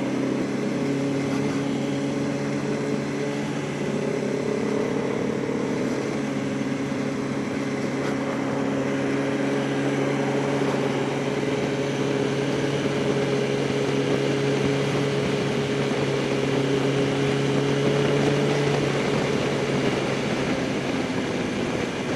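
Yamaha R1's inline-four engine running at a steady, moderate cruise, its pitch drifting only slightly, with wind rushing over the rider's microphone.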